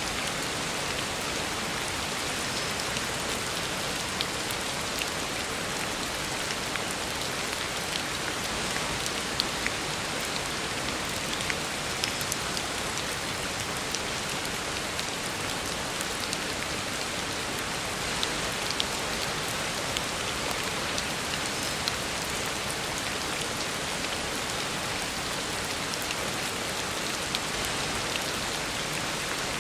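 Heavy rain falling steadily on a road surface: a dense even hiss with scattered sharper drop splashes.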